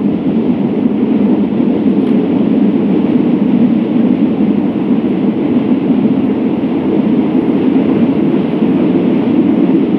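A train running along the track, a steady, even running noise with no breaks or distinct wheel clicks.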